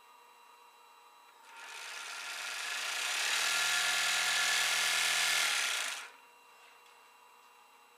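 1945 Merrow A-3DW overlock (serger) sewing machine running as it stitches a merrowed edge around a patch: it spins up over a second or so, runs steadily, then stops abruptly.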